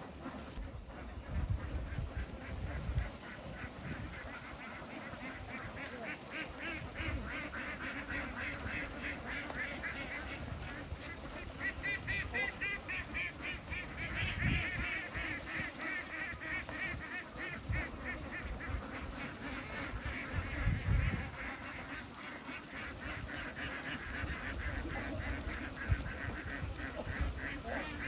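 A large flock of domestic ducks quacking together in a dense, continuous chorus, with a few low thumps.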